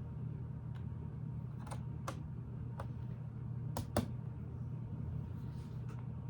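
Plastic Lego pieces clicking and tapping as they are handled and pressed into place: about seven sharp, separate clicks, the loudest pair close together about four seconds in, over a steady low hum.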